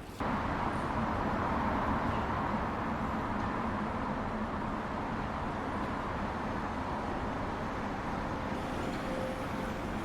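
Steady street traffic noise, a continuous wash of city vehicles, starting abruptly just after the start.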